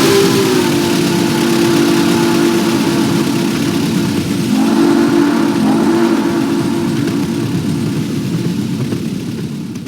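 Steam-whistle sound from an O scale Nickel Plate Road Berkshire steam locomotive model's onboard sound system: a long chime whistle held as a chord of several notes over a steady hiss, with fresh blasts about four and a half and six seconds in, fading near the end.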